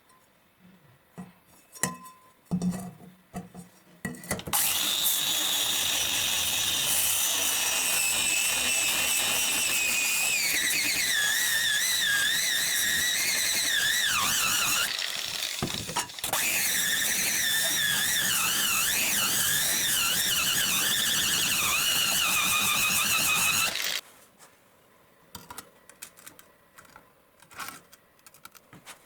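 High-speed power tool grinding steel saw-blade stock, with a loud whine that sags and wavers in pitch under load. A few light knocks come first; the tool breaks off briefly partway through and cuts off suddenly near the end.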